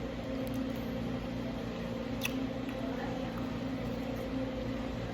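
Steady mechanical hum, like a fan or appliance running in a small room, with a single sharp click a little over two seconds in.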